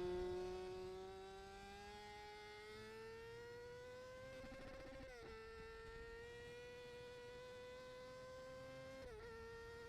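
Faint, high-revving motorcycle engine whine, fading away in the first second or so, then climbing slowly in pitch, dropping sharply about halfway through and dipping again near the end.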